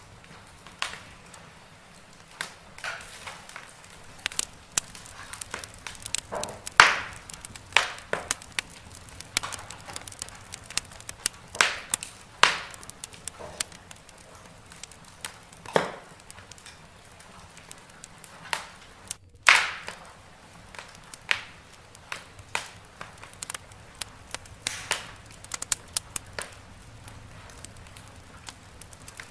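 Wood fire crackling in a fireplace: irregular sharp snaps and pops of varying loudness over a low steady hiss, with a brief break in the sound about two-thirds of the way through.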